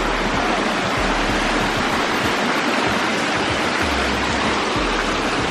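Rushing water of a waterfall and stream, a steady loud rush that does not let up.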